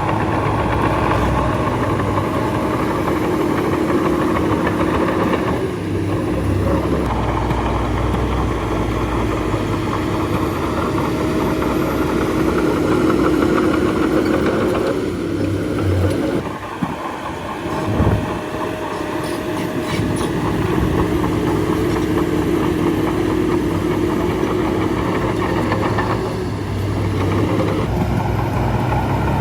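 Heavy diesel engine of a bulldozer running hard under load, with a steady drone and short dips in pitch and loudness three times as the load eases.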